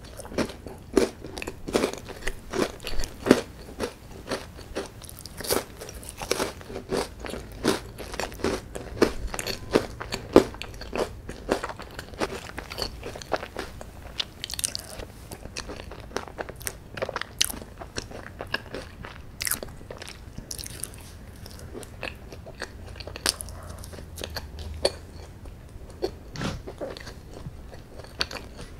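Close-miked eating: a person biting and chewing a crisp chocolate wafer bar, with sharp crunches and wet mouth sounds. The crunches come thick and fast at first and thin out after about twelve seconds.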